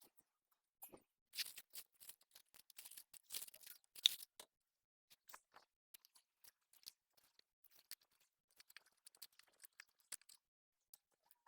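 Faint, scattered rustling and crunching of hands working plants and soil in a garden pot, busiest in the first few seconds.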